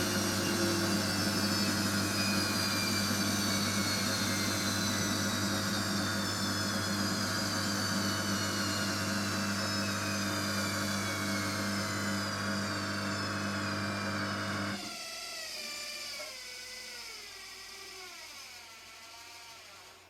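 Hotpoint WMXTF742K washing machine winding down from a spin, its motor whine falling steadily in pitch. About three-quarters of the way through the low hum cuts off, and the coasting drum's fading whine wavers down to silence.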